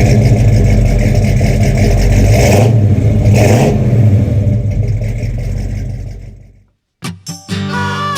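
Cummins 24-valve inline-six turbo diesel running through a 4-inch exhaust, revved twice in quick blips about two and a half and three and a half seconds in, then fading away. Guitar music starts near the end.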